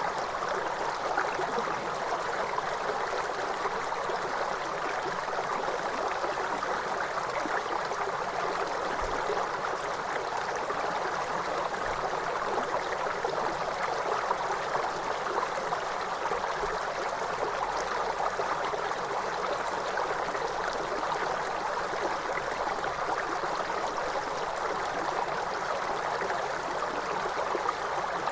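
Waterfall: water rushing and splashing in a steady, unchanging stream.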